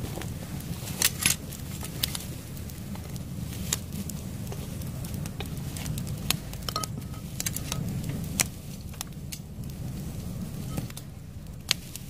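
Wood fire in a homemade hearth crackling, with sharp irregular pops and snaps over a steady low rumble.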